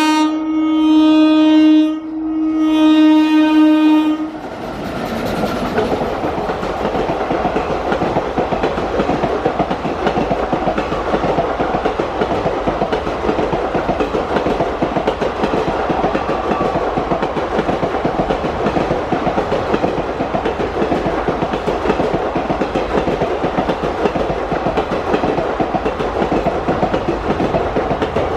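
WAG-9HC electric locomotive's horn sounding as the train passes. The horn breaks briefly about two seconds in and stops about four seconds in. After that, the wagons of the NMG goods train roll past with steady wheel clatter and rumble on the rails.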